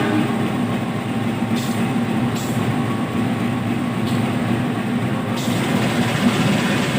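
Train running by with a steady rumble and a low hum.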